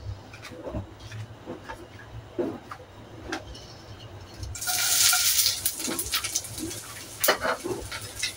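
Dried shrimp tipped into hot cooking oil in a wok, sizzling suddenly about halfway through and then settling to a steadier sizzle. A few light clicks and knocks of kitchenware come before it.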